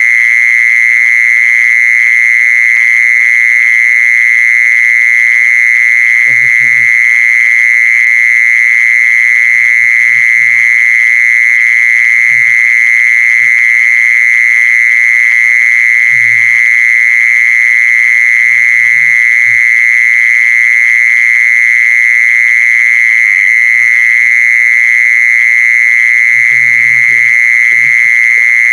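An insect's continuous high-pitched call, one steady unbroken tone at a constant loudness.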